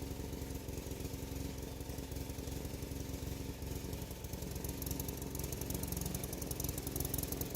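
Woodchipper running steadily, a low motor hum with a high rattle that grows louder about five seconds in.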